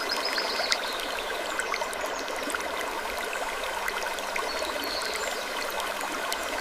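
Steady trickling, babbling running water, like a small stream, dense with tiny splashing clicks, with a couple of faint brief high chirps.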